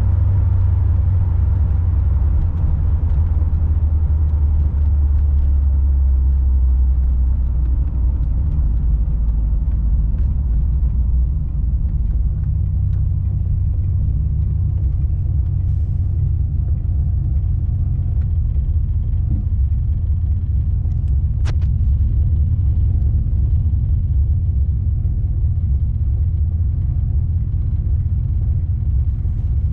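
1976 Chevrolet Corvette's 350 V8 running as the car drives, heard from inside the cabin as a steady low rumble. The rumble is strongest at first and eases about ten seconds in as the car slows behind traffic, then holds at a lower level; one brief sharp click comes a little past the twenty-second mark.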